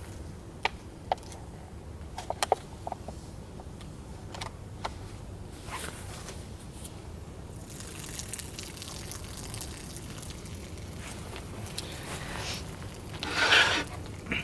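Things being handled: scattered light clicks and knocks, then a soft hiss from about halfway, and a short, louder scrape or rustle near the end.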